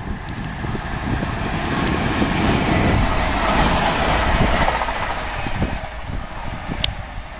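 Electric multiple-unit passenger train passing at speed on overhead-wire track, its rushing wheel and body noise swelling to a peak a few seconds in and then fading as it runs away. A sharp click comes near the end.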